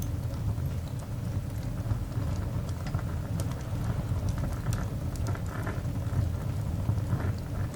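Coal fire burning in a cast iron dog grate, crackling with many small, sharp pops and snaps over a steady low rumble.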